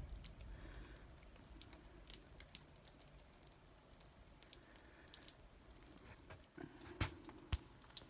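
Near silence with faint, scattered light ticks and two sharper clicks about seven seconds in.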